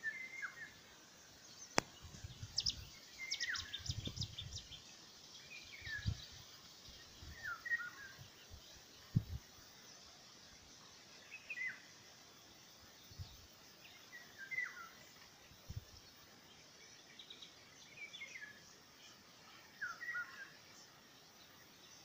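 A bird calling repeatedly, a short hooked note about every two seconds, over a faint steady outdoor hiss, with a few low thumps mixed in.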